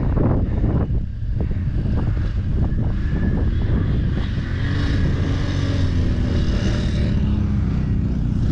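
ATV engine running and revving on a muddy trail ride. There are scattered knocks in the first few seconds and a hissing rush around the middle.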